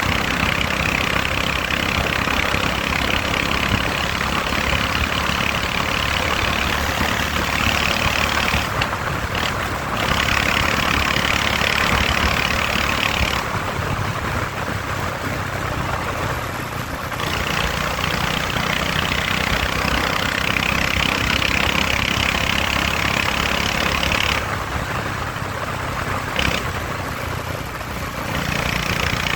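Motorcycle engine running steadily while riding, under loud wind rush on the microphone. The rush falls away three times, about a third of the way in, around the middle and near the end, leaving the engine hum more exposed.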